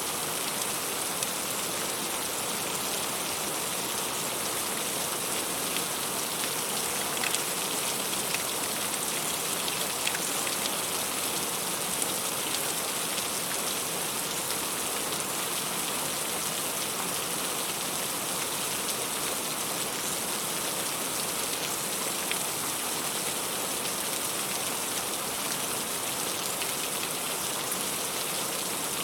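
Heavy rain falling steadily on the leaves of a fruit tree, an even hiss with a few sharper drops standing out between about 7 and 12 seconds in.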